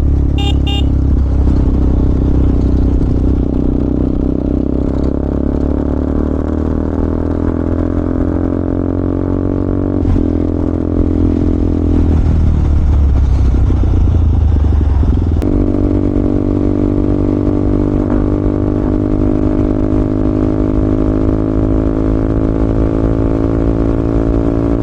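KTM Duke 200's single-cylinder four-stroke engine pulling the bike along the road at a steady cruise. Its note sags slowly, then changes abruptly about two-thirds of the way through and holds steady after that.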